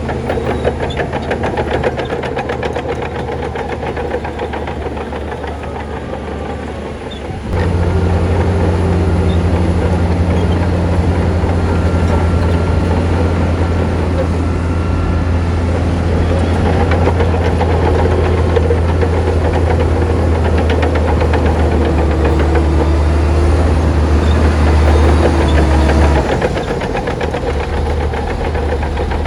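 Heavy diesel engine of earthmoving machinery running steadily; about a quarter of the way in it suddenly gets louder with a deep drone, which holds until near the end and then drops back.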